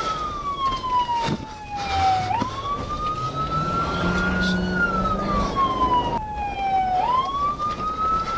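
Emergency vehicle siren wailing: its pitch climbs quickly, rises slowly to a peak, then glides down, in cycles of about four and a half seconds. A lower tone steps up in pitch underneath in the middle.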